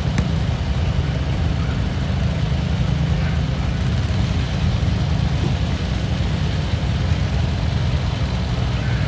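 Large farm tractor engine running steadily with a low, heavy drone.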